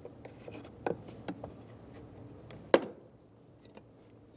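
Plastic retaining clips of a car door trim piece being pried out with a trim tool: a few light clicks, then one sharp snap nearly three seconds in as a clip pops loose.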